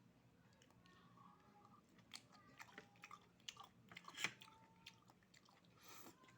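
Quiet chewing of cooked oysters, with a scatter of small mouth clicks and smacks between about two and four and a half seconds in, loudest just after four seconds.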